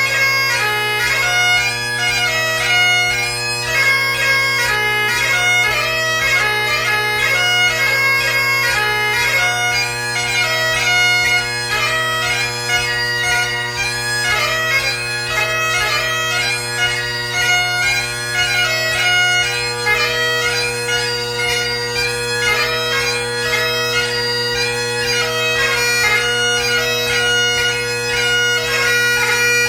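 Great Highland bagpipe played solo: the steady drones sound under a fast-moving chanter melody full of quick grace-note ornaments.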